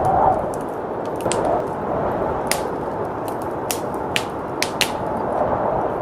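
Wood fire crackling, with sharp pops every second or so, over a steady rush of blizzard wind. A stronger gust dies down just after the start.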